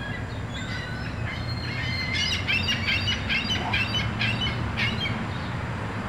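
A bird chirping in a quick repeated series, about five notes a second, over a steady low background rumble.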